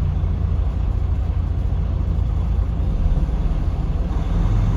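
Semi-truck diesel engine running with a steady low rumble, heard from inside the cab.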